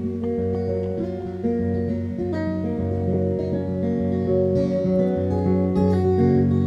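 Instrumental music: acoustic guitar strumming chords, no singing.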